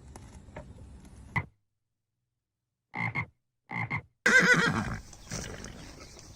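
A frog croaking: two short double calls about a second apart, followed by a louder, wavering animal call.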